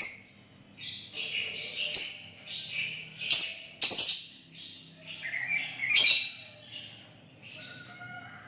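Sooty-headed bulbul (kutilang) singing vigorously: a string of short, chirpy whistled phrases repeated about every second, several of them starting with a sharp, loud note.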